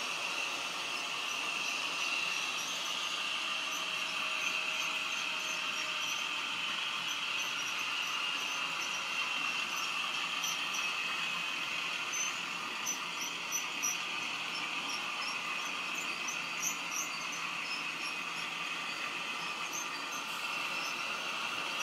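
OO gauge model diesel locomotive running with its DCC sound decoder playing a steady diesel engine sound through the model's small speaker, with light clicks scattered through.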